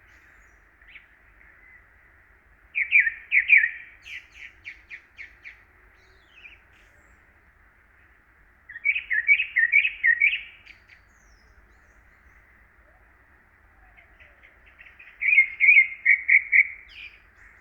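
A songbird singing three short phrases of quick, repeated chirping notes, several seconds apart, over a faint steady hiss.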